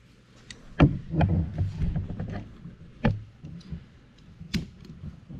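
Handling noise from working on a rubber boot: four sharp knocks and bumps, the loudest about a second in, with low rubbing and shuffling between them.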